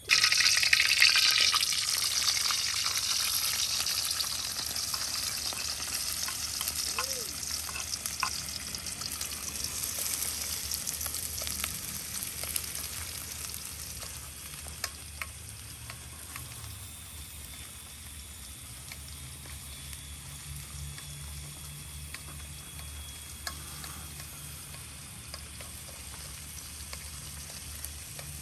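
Chopped shallots sizzling in hot oil in a metal wok on a portable gas stove as they are stirred, the sizzle loud at first and gradually quieting. A metal spoon now and then clinks and scrapes against the wok.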